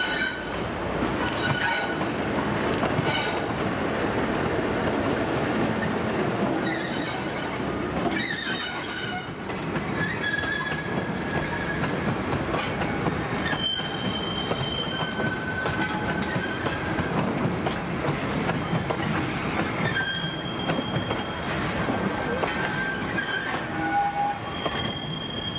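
Diesel-hauled train of vintage wooden passenger coaches rolling slowly past close by. The wheels clack over the rail joints and points, and from about ten seconds in there are repeated short, high-pitched wheel squeals.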